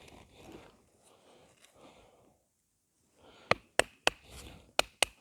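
A hazel baton striking the spine of a Mora knife to split kindling: a quick run of about six sharp wooden knocks in the last two seconds, after a few seconds of faint handling noise.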